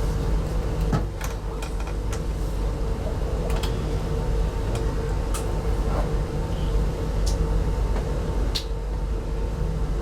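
Interior running noise of a passenger coach on the through train: a steady low rumble with a constant hum, and scattered sharp clicks and rattles.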